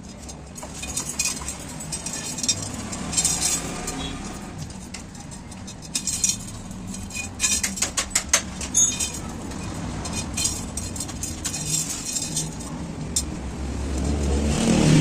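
Irregular light metallic clinks and taps, as of hand tools on a motorcycle wheel, over a steady low rumble of street traffic; a motor vehicle passes close near the end.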